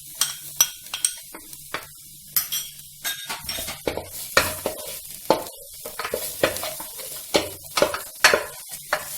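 A spatula stirring and scraping in a pan, with irregular clicks and knocks, as chopped onion, ginger, garlic and green chillies fry in butter with a light sizzle.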